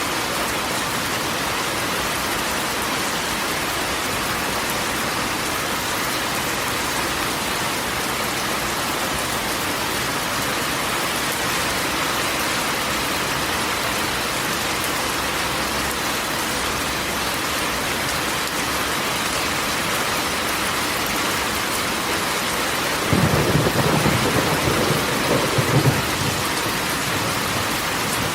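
Steady rain falling on a corrugated tin roof, with a rumble of thunder about 23 seconds in that lasts around three seconds and is the loudest part.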